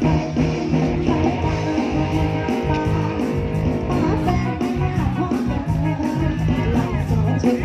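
Live band music with a steady beat and held melodic notes, without singing.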